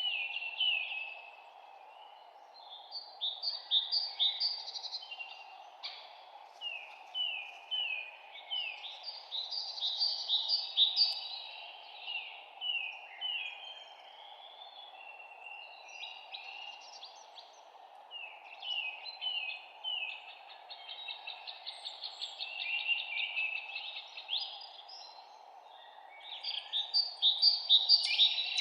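Songbirds singing: phrases of quick, chirping notes, many of them falling in pitch, come one after another with short gaps, over a steady low hiss of background noise.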